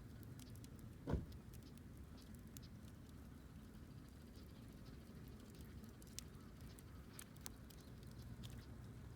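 Campfire burning with faint, scattered crackles and small pops over a low rumble. A single dull thump about a second in is the loudest sound.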